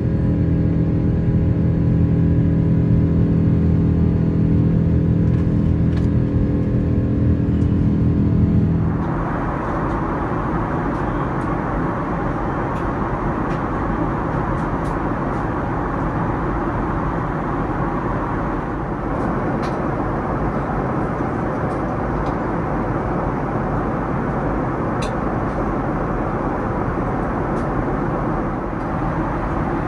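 Boeing 787-9 airliner noise. A steady hum with several held tones for about the first nine seconds, then an abrupt change to an even, steady rushing noise.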